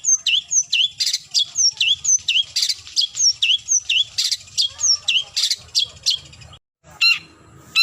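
Long-tailed shrike calling: a rapid, even string of short squeaky notes, each sweeping down and back up. After a brief break near the end it gives harsher, slower squawking calls.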